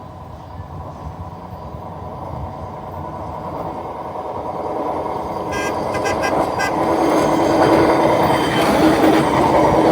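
Hi-rail truck running on the rails, its noise growing steadily louder, with a brief high-pitched tone a little past halfway.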